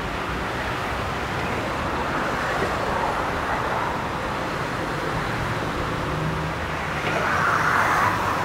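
A commuter train moving along the station tracks: a steady rolling rumble that grows louder near the end.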